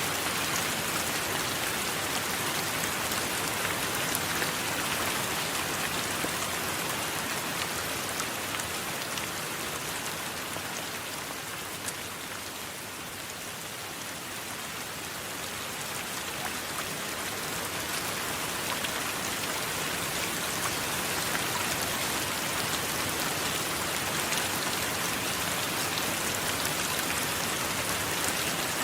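Steady rain, an even hiss with faint scattered drop ticks, easing a little about halfway through and then building back up.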